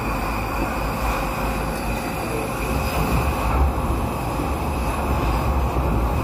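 Docklands Light Railway train heard from inside the carriage running through a tunnel: a steady heavy rumble of wheels on rail with a thin, steady high-pitched whine over it.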